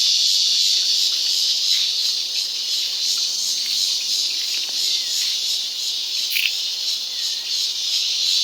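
Cicadas buzzing: a steady, high-pitched drone with no break, with a brief chirp about six seconds in.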